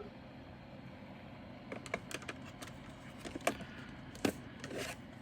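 Small plastic bags of diamond painting drills being handled, making a few scattered light clicks and taps that start about two seconds in.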